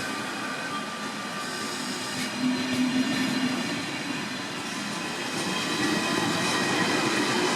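A train running along the track with several steady whining tones over a rumble and a few clicks along the way, growing louder near the end.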